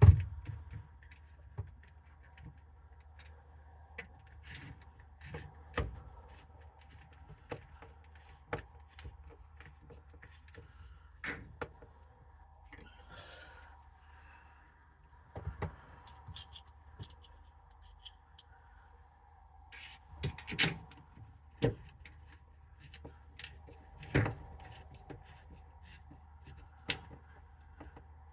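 Scattered clicks, taps and knocks of a caravan roof-hatch fan frame being screwed back into place by hand, with a sharp knock at the start and a brief scrape partway through. A faint steady hum runs underneath.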